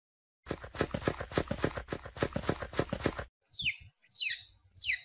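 Squirrel calls: a rapid run of sharp clicking chatter, about seven clicks a second, followed by three short high squeals that each fall steeply in pitch.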